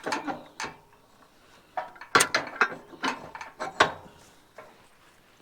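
Metal harness and hitch hardware on a draft horse team clinking and clanking in irregular clusters as the team is backed up to a hay wagon to be hitched.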